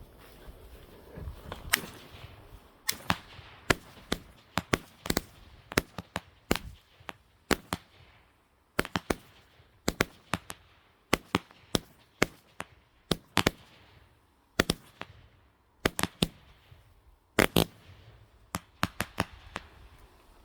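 Fireworks going off: a long string of sharp bangs at an uneven pace of one to two a second, some in quick pairs, with short lulls about eight and fifteen seconds in.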